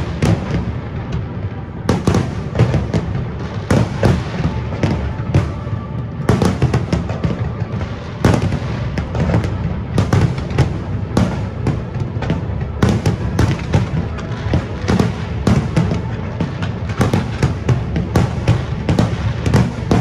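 Aerial fireworks shells bursting in a rapid, unbroken barrage of sharp bangs over a low rumble, with music playing behind.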